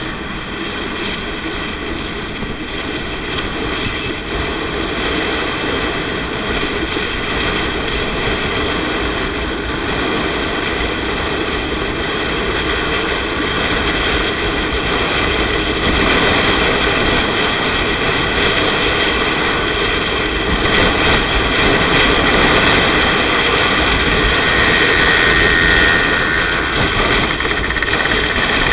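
Motorcycle riding along a road: engine running under a dense rush of wind noise on the rider's microphone, getting gradually louder in the second half.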